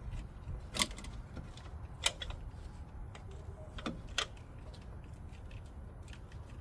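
Socket wrench working a brake booster mounting bolt: four sharp, irregular metal clicks and clinks, two close together in the middle, over a low steady rumble.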